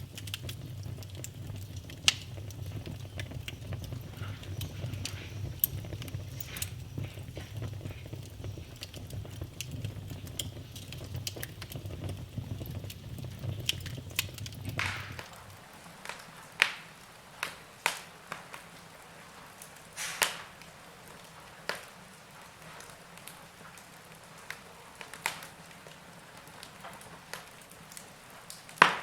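Wood fire crackling and popping in a fireplace. A low rumble under the crackle stops abruptly about halfway through. After that come scattered sharp pops of burning logs, with a loud pop at the very end.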